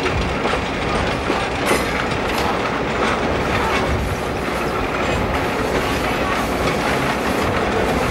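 Passenger train rolling along the track, heard from aboard one of its cars: a steady rumble of wheels on rail with a few clacks.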